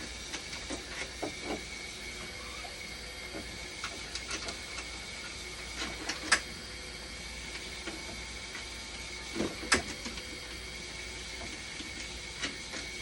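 Dialysis machine running under test: a steady hum with a thin high whine, and scattered clicks and knocks, the two loudest about six and nine and a half seconds in.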